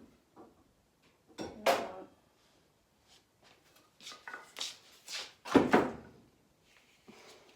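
Wooden boards being handled and fitted together: a series of separate knocks and scrapes, the loudest about a second and a half in and again about five and a half seconds in.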